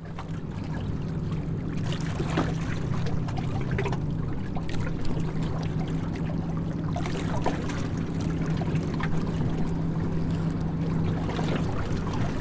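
A steady low motor hum with water trickling and splashing, and scattered small splashes.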